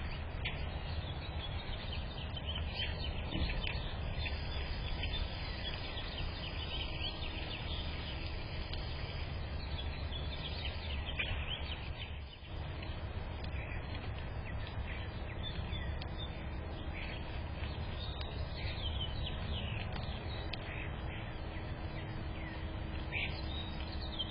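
Small songbirds chirping and twittering in a rapid, overlapping chorus of short calls, over a steady low background rumble.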